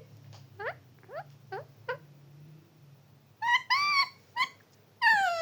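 Pet parrot calling: four short rising chirps, then three louder calls, the middle one longer, and a long falling call near the end.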